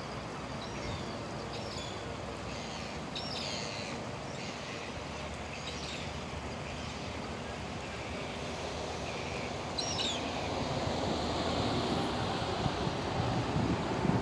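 Scattered short, high chirps of small birds over a steady low rumble that grows louder about ten seconds in.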